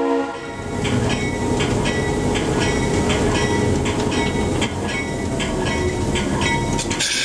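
Train rolling on the rails, a steady rumble with regular clicks of the wheels over the rail joints. A multi-note horn chord cuts off right at the start, and a loud hiss starts near the end.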